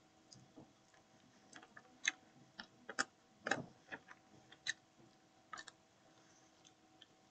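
Faint close-up eating sounds while picking at chicken wings: irregular sharp mouth clicks and lip smacks from chewing, about a dozen, the loudest about three and a half seconds in.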